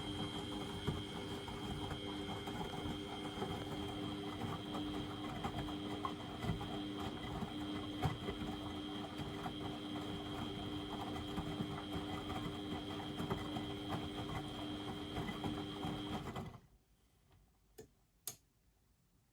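Beko WMD 46160 washing machine running steadily with a constant hum and light ticking, mid-way through a boil-wash programme. Near the end it cuts off suddenly, followed by two short clicks.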